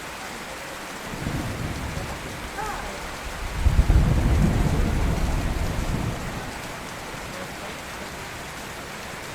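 Steady rain falling, with a roll of thunder that rumbles up about three and a half seconds in, is loudest around four seconds, and fades out over the next couple of seconds.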